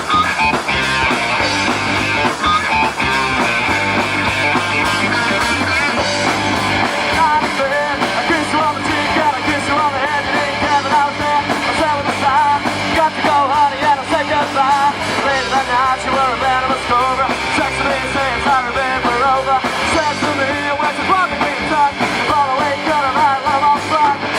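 Rock band playing live, with guitar, bass and drums. From about seven seconds in, a lead melody wavers up and down in pitch over the band.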